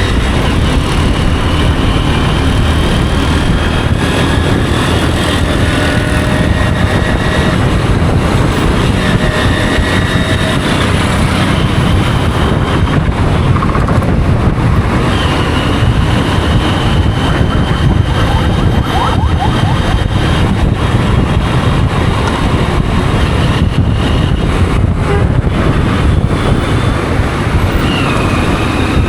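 Riding on a motorcycle through traffic: a steady, loud rumble of engine and road noise that doesn't let up.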